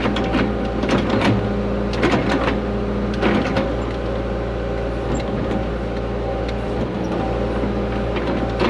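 Excavator engine running steadily while the hydraulics work the water line plow into the ground, with scattered knocks and clicks from the plow and linkage.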